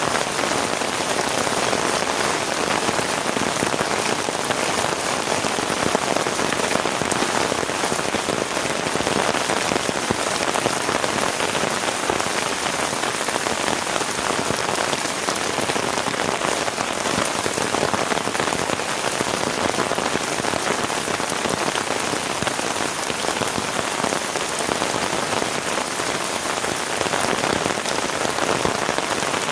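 Heavy rain falling steadily on a surface, a dense, even patter of drops.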